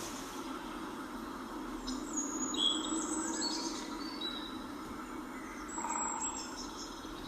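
Birds calling in short high chirps, a cluster about two to three seconds in and another near six seconds, over a steady low background hum.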